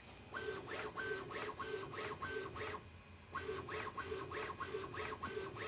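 Bambu Lab A1 Mini 3D printer's stepper motors sounding a quick series of short, evenly spaced tones, about three a second, with a brief pause about three seconds in. This is the printer's automatic calibration, which tunes out vibration and motor noise.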